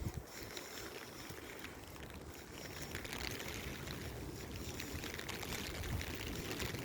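Strong gusty wind buffeting the microphone, a low uneven rumble over a steady hiss of pouring rain, growing slightly stronger partway through.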